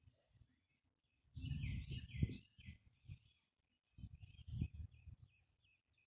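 Small birds chirping and twittering, with two bursts of low rumbling noise about a second and a half in and again about four seconds in.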